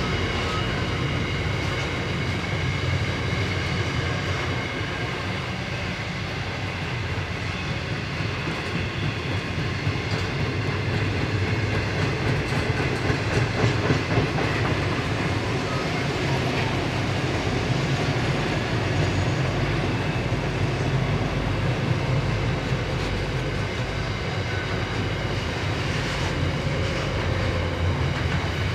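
Long intermodal freight train of container wagons rolling past: a steady rumble of steel wheels on the rails, swelling a little about halfway through.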